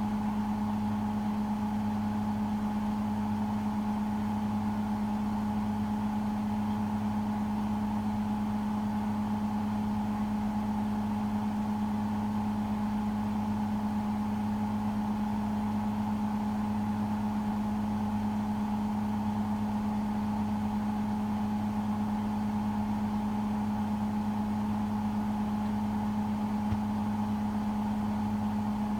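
Hotpoint WMFUG 942 washing machine spinning at steady high speed during an intermediate spin, its motor giving a constant hum with a higher whine over it.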